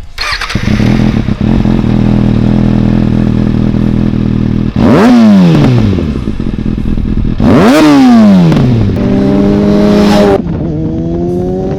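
A 2019 Kawasaki ZX6R's 636cc inline-four engine catches and settles into a steady idle. It is then blipped twice, each rev shooting up and falling back to idle, before a rising engine note that breaks off once and climbs again near the end.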